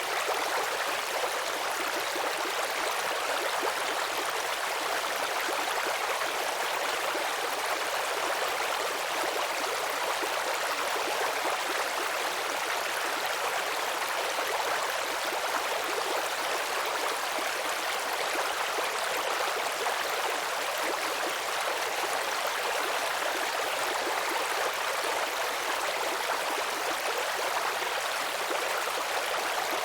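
Small babbling brook: water running and trickling steadily over stones, a continuous bright rushing and burbling with little low rumble.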